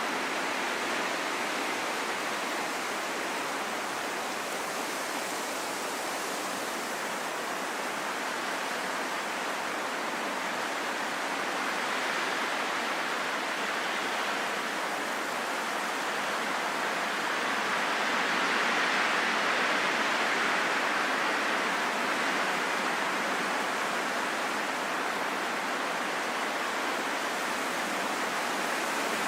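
Steady wind rushing as an even hiss, swelling a little about two-thirds of the way through and then easing back.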